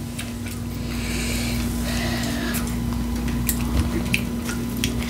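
Close-miked chewing of taco salad, with a few light, sharp clicks, over a steady low hum.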